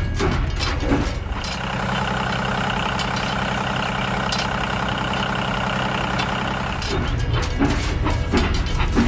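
Vehicle sound effects: clacking at the start, then a steady engine-like drone for about five seconds that stops near the end, then clacking again.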